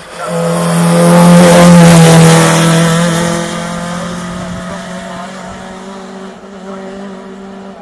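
Rally car engine running at high revs as the car passes close by. It swells to its loudest a second or two in, then fades steadily as the car pulls away up the hill.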